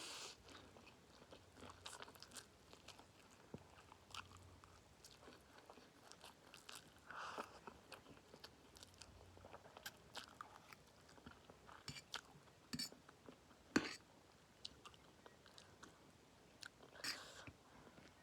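Close-up chewing of instant noodles mixed with peanuts: soft, scattered crunches and mouth clicks, with a few sharper clicks about two-thirds of the way through.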